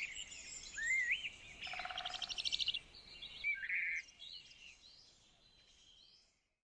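Several small songbirds singing and calling, with quick whistled notes that rise and fall and a fast trill about two seconds in. The birdsong fades and cuts off to silence near the end.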